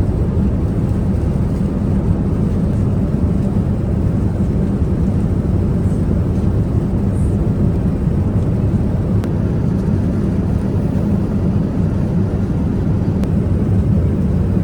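Steady low rumble of engine and airflow noise inside the economy cabin of a Boeing 787-9 in flight.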